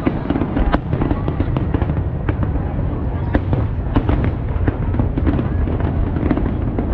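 Fireworks display going off: a dense run of sharp bangs and crackles over a continuous low rumble.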